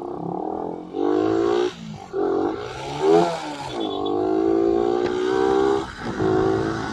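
Motorcycle engine accelerating through the gears. Its pitch climbs in several pulls, each cut short by a gear change, with one longer pull in the middle.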